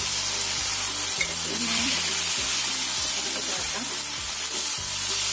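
Chicken wings and tofu sizzling in a coated frying pan, stirred and turned with a plastic slotted spatula.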